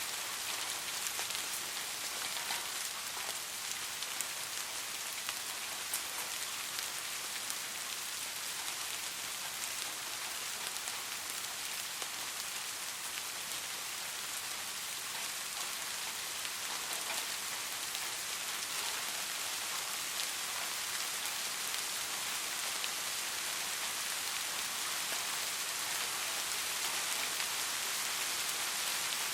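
Steady soft rain falling, a continuous hiss made of many fine drop ticks.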